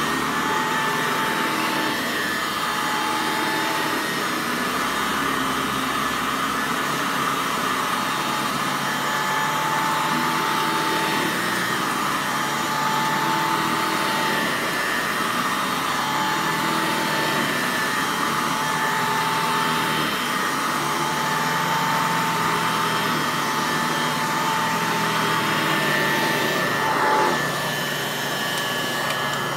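Hoover Model 300 upright vacuum cleaner with a beater bar, running steadily with an even, high motor whine; a brief swell in loudness about 27 seconds in.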